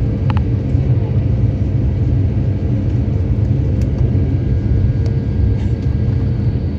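Steady low rumble inside the cabin of an Airbus A350-900 airliner, from its Rolls-Royce Trent XWB engines and cabin air, with a constant hum and a few faint small clicks.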